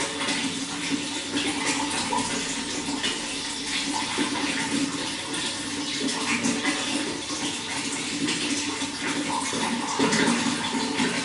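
Running water flowing steadily, a continuous rush with many small splashes throughout.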